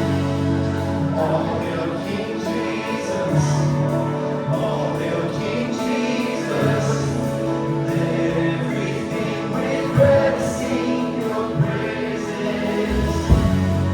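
Live worship band playing with voices singing over sustained chords. Low, regular drum thumps come in near the end.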